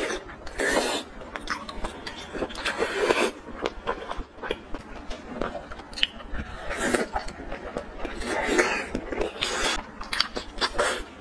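A person chewing and biting sauce-coated food, picked up close by a clip-on microphone: a steady run of small irregular clicks, smacks and short mouth noises.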